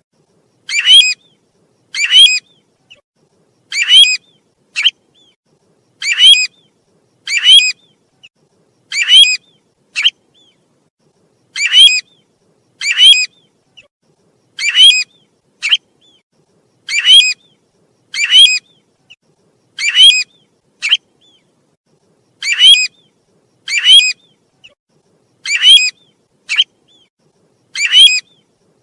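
Bird-call lure recording of the bird known in Vietnamese as 'tu huýt': one loud, quick upward-sweeping whistled call about every second, some of them followed by a shorter, fainter note.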